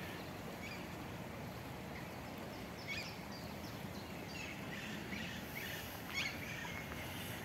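A small stream of water running steadily, with birds chirping briefly over it several times.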